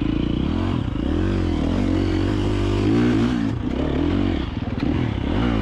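KTM 350 XC-F dirt bike's single-cylinder four-stroke engine at low revs, the throttle opened and closed in short rises and falls about four or five times as the bike creeps slowly through a technical section, with some clatter from the bike over rough ground.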